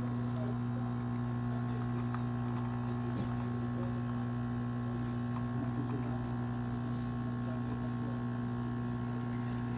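Single-serve pod coffee maker brewing, its water pump running with a steady, even hum.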